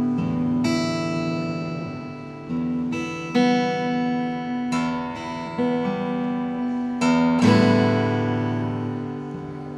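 Acoustic guitar played slowly and freely: chords are struck one after another, about eight in all, and each is left to ring and fade.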